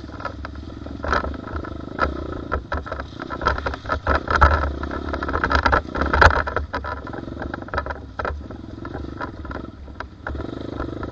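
Small dirt bike engine running, with irregular clatter and knocks on top, loudest around the middle.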